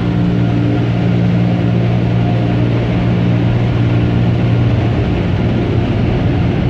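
Touchless car-wash dryer blowers running, a steady low hum and rush of air heard from inside the vehicle. It is a dryer that is doing a poor job of drying.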